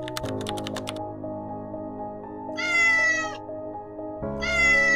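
A kitten meowing twice, loud distressed cries each under a second, pitch falling slightly, over background music. A quick run of clicks in the first second.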